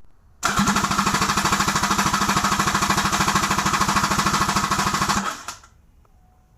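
2014 Kawasaki Ultra 310R supercharged four-cylinder jet-ski engine turned over on its starter motor, a fast, even chugging of compression strokes that starts about half a second in and stops abruptly after about five seconds.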